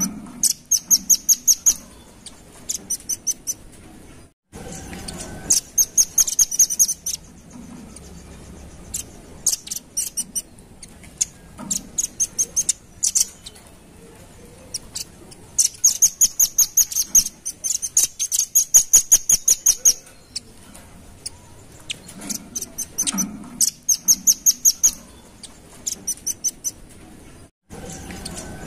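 Velvet-fronted nuthatch calling: runs of sharp, high-pitched notes, about four a second, each run lasting one to four seconds with short pauses between. The sound cuts out briefly twice.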